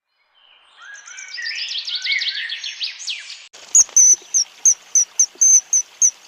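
Birdsong: a fast, varied song of high chirps and trills. About three and a half seconds in it cuts off abruptly, and a louder, single high note takes over, repeated about nine times at roughly three to four a second.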